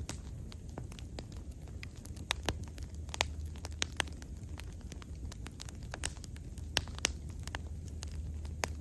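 Wood fire burning steadily, with irregular sharp crackles and pops over a low rumble of the flames.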